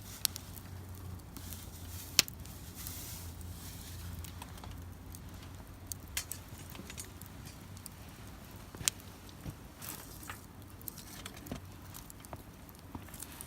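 A wood fire crackling, with irregular sharp pops over a steady low background hiss.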